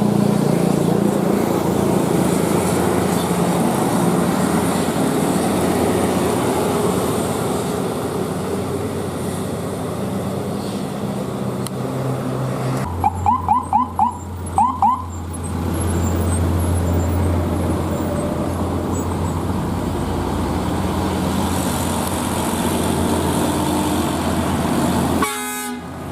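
Heavy road vehicles running and labouring up a steep climb, with a vehicle horn tooted in a quick string of five short blasts about halfway through, then two more.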